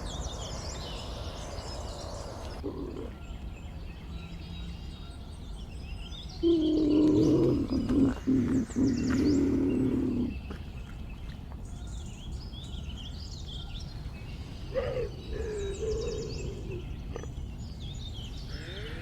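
Scattered bird chirps, with an animal's long pitched call, falling slightly, starting about six seconds in and lasting some four seconds, and a shorter call a little after the middle.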